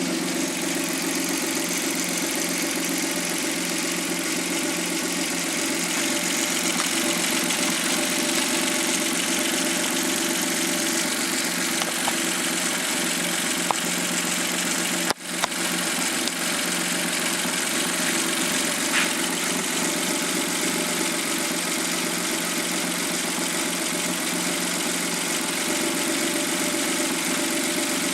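Suzuki K6A three-cylinder engine from a Jimny JB23W idling steadily, with a momentary break in the sound about halfway through.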